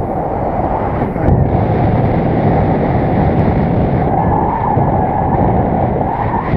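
Strong wind blowing across the microphone: a loud, steady, deep rush of wind noise.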